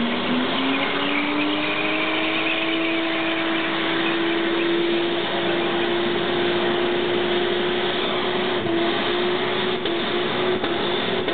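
Toyota Soarer JZZ30's 1JZ-GTE twin-turbo straight-six held at high revs in a burnout, the rear tyres spinning under a dense hiss of tyre noise. The engine note climbs in the first second or so, then holds steady, dipping briefly a few times near the end.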